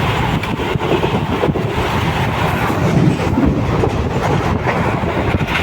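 Express train running at speed, heard from on board: a steady, loud rumble and rattle of the coach on the track.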